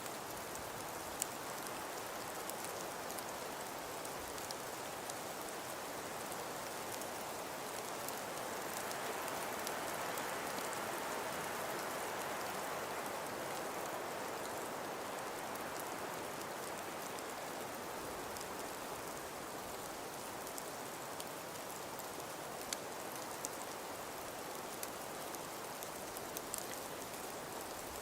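Snowstorm ambience of wind and falling snow: a steady hiss with faint scattered ticks, swelling a little about ten seconds in.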